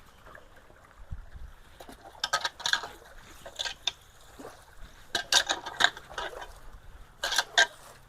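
Irregular bursts of scraping and clattering as wet debris (branches, roots and gravel) is worked loose and pulled from a clogged culvert, with some water sound underneath.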